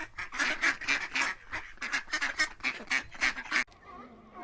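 Ducks quacking in a fast, loud run of harsh calls, about four a second, cut off abruptly about three and a half seconds in. Fainter gliding calls follow.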